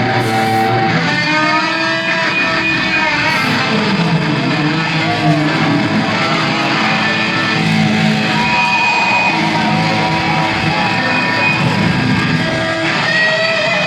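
A live rock band playing, led by electric guitar.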